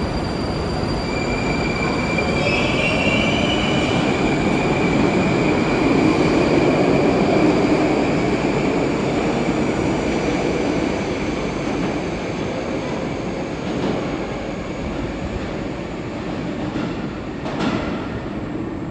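Moscow metro train running along the station platform: a steady rumble of wheels on rails that swells to its loudest about midway and then eases, with a high-pitched wheel squeal held over it. A sharp knock near the end.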